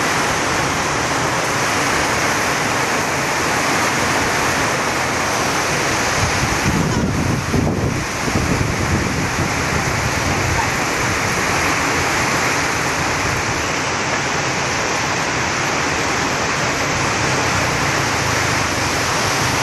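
Heavy rain pouring down in a steady, loud hiss. About seven seconds in there is a brief low rumbling surge.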